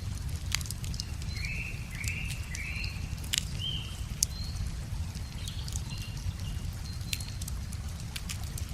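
Wood fire crackling with scattered sharp pops, over a steady low rumble of river water, while a small bird chirps a few short notes about one to four seconds in.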